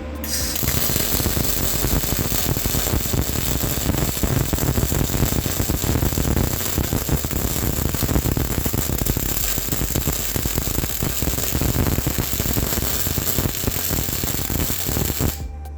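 Steady crackling and hissing of a welding arc, run as one continuous bead for about fifteen seconds. It starts just after the beginning and cuts off shortly before the end.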